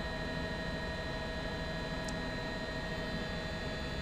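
Steady drone and hiss with a few constant tones, typical of a news helicopter's cabin heard through the reporter's open microphone, with a faint short tick about two seconds in.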